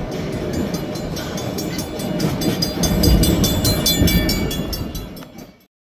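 Train rolling along the track, heard from aboard: a steady rumble with rapid, regular clicking. It fades and cuts off just before the end.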